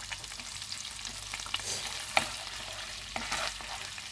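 Sliced lemongrass and garlic sizzling and crackling in hot oil in a non-stick pan, stirred with a wooden spatula, with a few sharper clicks about two and three seconds in.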